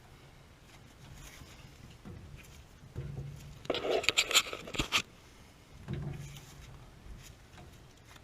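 A short burst of scraping and clattering, loudest about four seconds in, from hands working with tools and parts.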